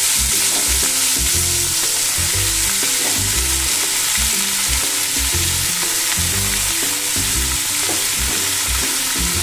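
Bottle gourd strips sizzling in hot oil in a metal wok, stirred and turned with a flat metal spatula: a steady frying hiss with the spatula's uneven scrapes and knocks against the pan.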